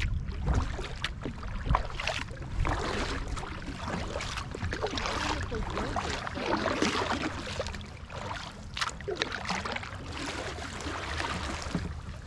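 Kayak paddle strokes splashing in the water, with water washing and running around the hull as the kayak is paddled into a creek mouth. The splashes come irregularly over a steady low rumble.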